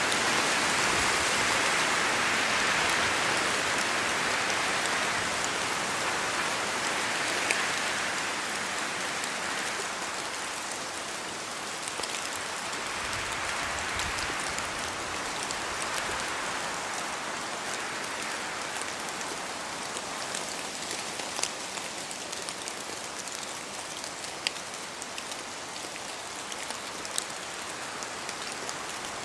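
Steady rain falling through forest trees, an even hiss with scattered sharp clicks of single drops falling from the leaves. It eases a little over the first ten seconds.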